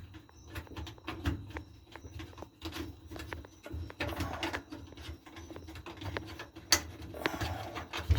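Irregular clicks, taps and knocks of hands and a tool working on the clothes dryer's parts, with one sharper click about two-thirds of the way through.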